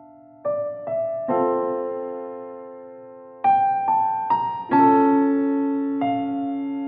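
Slow, gentle piano music: single notes and soft chords struck about every half second to a second, each left to ring and fade.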